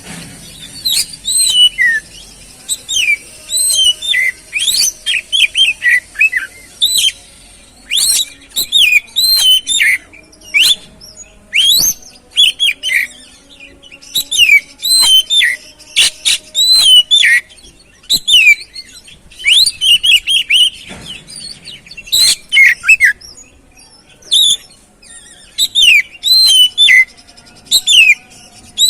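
Oriental magpie-robin (kacer) singing: a dense, varied run of short whistled and gliding notes, in quick clusters broken by brief pauses.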